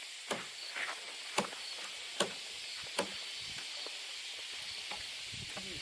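Five sharp knocks in the first three seconds, roughly one every 0.7 s, over a steady hiss.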